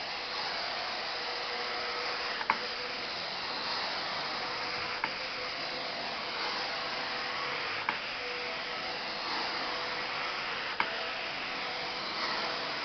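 Truck-mount carpet-cleaning wand drawing air and water out of the carpet: a steady rushing suction with a faint steady hum, broken by a short sharp click about every three seconds.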